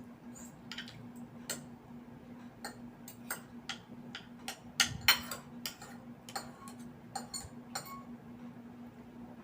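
Eating at the table: a run of irregular small clicks and light clinks from utensils on dishes and from chewing, loudest about five seconds in. A faint steady hum lies under it.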